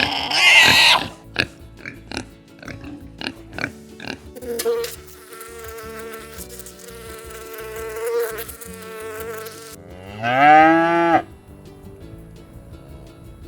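A sequence of farm animal calls: a short loud squeal at the start, a few clicks, a long steady call from about four seconds in, then a cow mooing once, loud, rising then falling in pitch, about ten seconds in.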